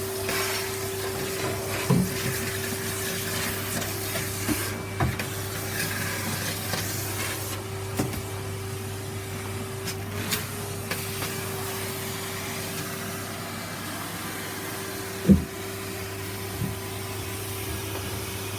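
Vacuum cleaner running steadily, its motor hum holding one pitch over a rushing hiss. Scattered short knocks sound against it, the loudest about fifteen seconds in.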